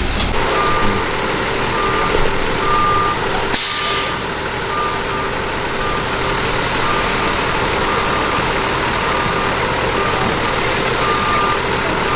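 A reversing heavy vehicle's backup alarm beeping about once a second over its engine running, with a short sharp hiss of air about three and a half seconds in.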